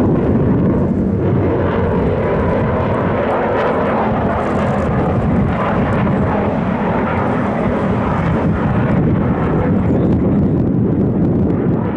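Military aircraft engine noise from a display plane in flight, a loud steady roar with no sharp changes in pitch.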